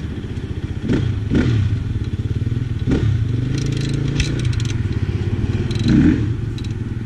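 Enduro motorcycle engine running, its revs briefly rising and falling several times, with a stretch of rattling clatter around the middle.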